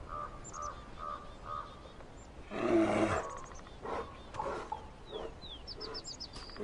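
A bear gives one rough roar about two and a half seconds in, its pitch falling at the end, followed by a few shorter, quieter grunts. Faint high bird chirps are heard in the background.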